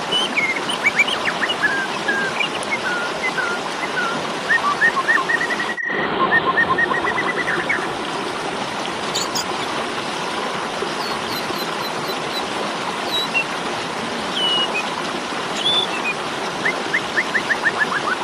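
Asian pied starling (jalak suren) calling in its fighting mode: quick runs of short chirping notes and a fast rising trill, then scattered high notes and another rapid burst near the end, over a steady background hiss. The sound drops out for an instant about six seconds in.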